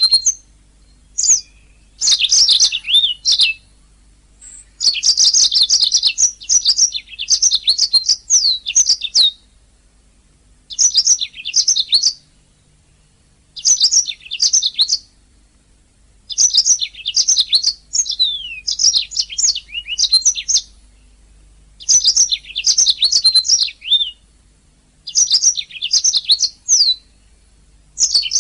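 Domestic canary singing: repeated bursts of rapid trills and warbling phrases, each one to four seconds long, with short pauses between them.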